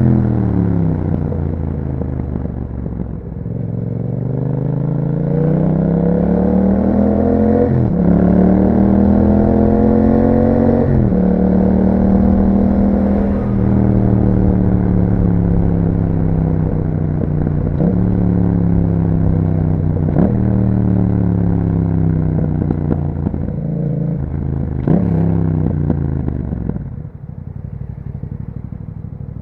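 2021 Yamaha MT-07's 689 cc parallel-twin engine through an Akrapovic exhaust, pulling up through the gears with the pitch stepping down at each shift. It then slows with the engine note falling, with short throttle blips on downshifts. It settles to a lower, quieter rumble near the end.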